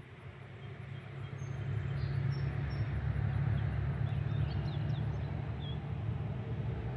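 A low rumble that swells over about two seconds and then holds steady, with faint high chirps from birds over it.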